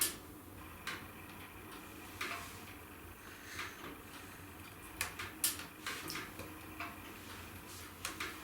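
Wood fire in a fireplace crackling: irregular sharp pops and snaps, a few in quick succession about five seconds in, over a low steady hiss.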